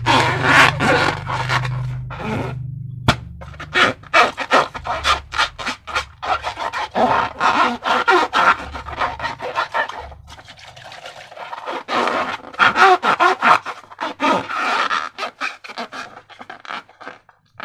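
Sticky slime being squished and worked by hand: fast, irregular wet squelches and crackles, pausing briefly about two seconds in and easing off for a moment past the middle.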